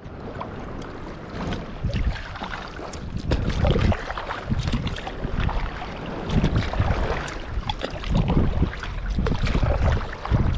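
Wind buffeting the microphone in uneven gusts, with water lapping and splashing against a kayak's hull.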